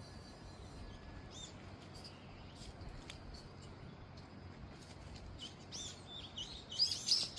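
Small birds chirping: short, high, arching chirps, sparse at first, then coming thicker and louder near the end, over a steady low background hiss.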